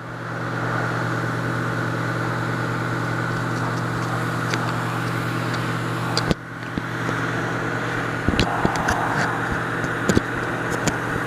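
Pressure washer running steadily, its spray hissing, heard muffled through a GoPro's waterproof case. The spray cuts out briefly about six seconds in while the motor hum carries on. A few clicks and knocks come near the end.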